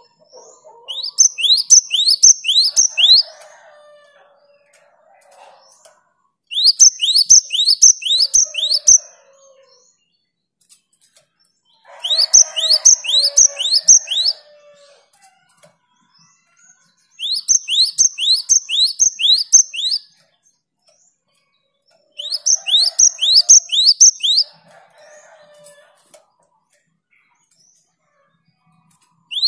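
Gelatik batu (cinereous tit, in the great tit group) singing in five bursts about five seconds apart. Each burst is a quick run of about six sharp, high, down-slurred whistled notes.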